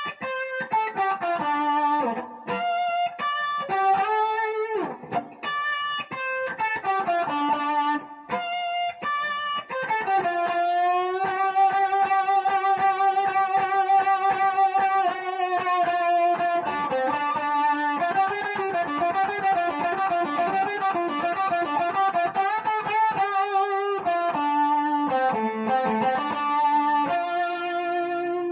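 Electric guitar playing a blues outro solo in D, up around the 10th fret: single-note phrases with string bends and vibrato. About ten seconds in comes a long held note with wavy vibrato.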